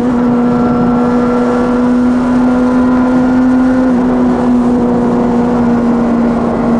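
Yamaha Fazer 600's inline-four engine through a handmade exhaust, running at high revs. It holds a steady note under constant throttle, dropping slightly about four seconds in.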